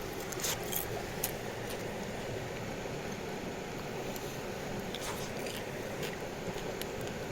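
Sharp pops and crackles over a campfire's steady rushing hiss, a few pops close together in the first second or so and a few more near the end.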